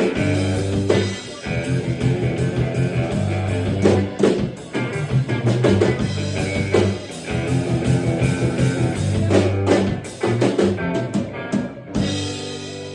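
A live country band playing an up-tempo tune on guitar and drum kit, ending on a held final chord about twelve seconds in.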